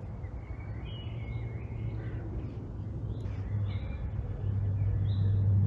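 Birds calling with short, repeated calls over a steady low motor rumble, which grows louder near the end.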